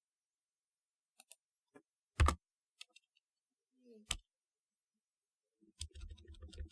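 Keys of a typewriter-style keyboard clacking: a few scattered keystrokes with pauses between them, the loudest a little over two seconds in, then a quicker, denser run of clacks near the end.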